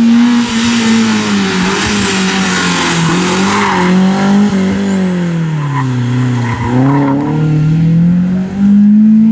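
Rally car engine at high revs, its pitch rising and falling as the driver lifts and accelerates. It dips lowest about six and a half seconds in, then climbs again. A hiss of tyre noise runs through the first few seconds.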